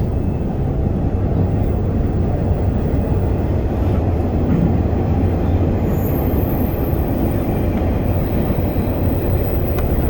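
MBTA Orange Line subway car running along the track, a steady low rumble of wheels on rails heard from inside the car.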